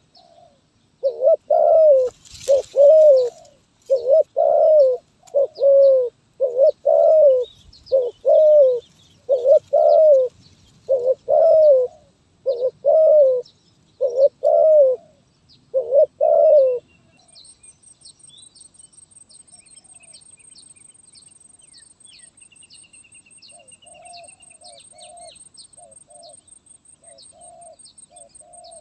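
Spotted dove cooing in a stuttering style: a run of about fourteen separate single coos, one roughly every second, instead of full phrases. The coos stop about two-thirds of the way in, and fainter coos come back near the end. Small birds chirp throughout, and a steady high insect-like pulsing starts once the loud coos stop.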